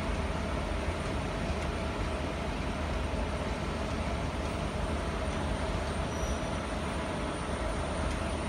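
Electric locomotive hauling a passenger train past on the station loop line: a steady rumble with a constant hum running through it.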